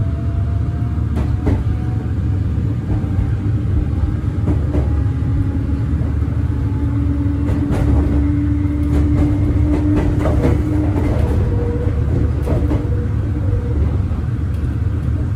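Meitetsu local train running, heard from inside the carriage: a steady low rumble of wheels on rail with a motor hum holding one pitch, and occasional clicks.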